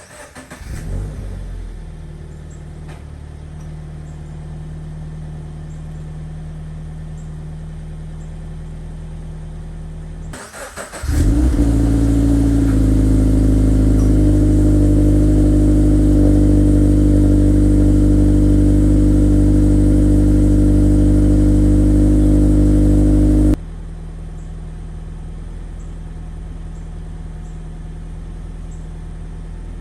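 Subaru BRZ flat-four engine starting cold and settling into a steady idle through its exhaust. About ten seconds in, a second start settles into a much louder, deeper idle; it cuts off abruptly and the quieter idle returns. The two recordings contrast the stock exhaust with a Borla axle-back exhaust.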